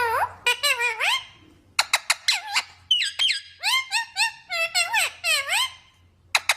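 Pet green parrot calling: a rapid series of shrill squeaky chirps and squawks whose pitch swoops up and down, mixed with sharp clicks, with a short pause about a second in.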